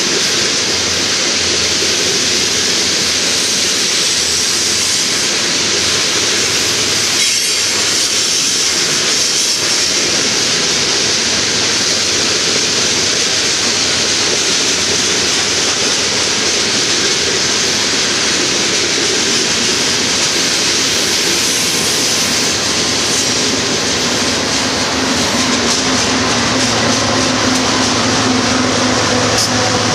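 Covered hopper cars of a BNSF grain train rolling past with a steady, loud rumble of steel wheels on rail. In the last few seconds the low, even hum of BNSF diesel locomotive engines joins in as the locomotives draw near.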